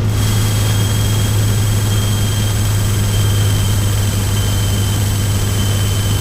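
Steady drone of a single-engine Cessna's piston engine and propeller heard inside the cockpit, throttled back to about 1500 rpm on the downwind leg, with a faint steady high whine over it.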